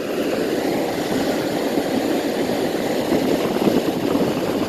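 Vintage Whirlpool 10,000 BTU window air conditioner running on cool with the compressor on, its large fan blowing a steady rush of air. It is clogged with dirt, which the owner thinks probably restricts the airflow.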